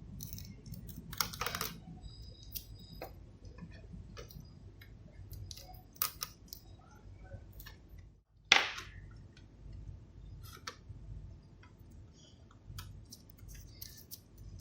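Scattered light clicks and taps of small parts and tools being handled on a workbench, with one sharper click about eight and a half seconds in.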